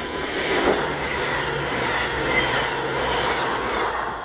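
CrossCountry Voyager diesel multiple unit passing through the station at speed without stopping. A rush of wheel and air noise over the drone of its underfloor diesel engines swells up, holds, then fades near the end.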